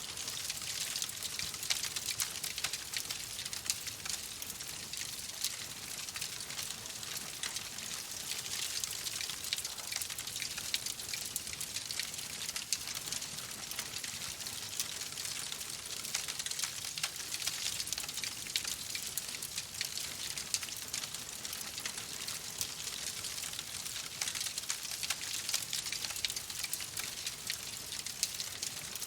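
Wood fire crackling in a fireplace: a steady hiss thick with small, rapid pops and snaps.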